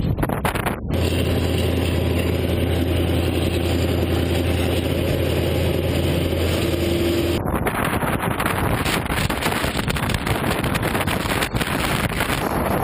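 Moving train heard from its roof: steady running noise with wind buffeting the microphone. From about a second in until about halfway through, a steady low drone comes in and the sound turns duller, then the open wind noise returns.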